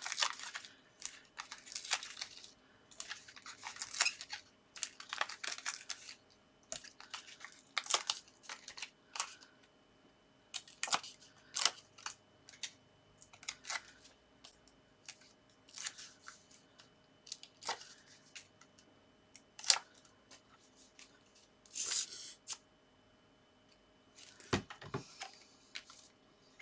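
Adhesive foam pads being peeled from their backing paper and pressed onto a paper card topper: a string of short peeling, crinkling paper sounds and light taps, a few of them longer rips.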